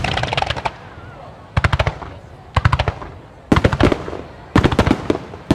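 Fireworks starmine barrage: volleys of rapid, sharp bangs and crackles about once a second, each volley lasting under half a second to a second.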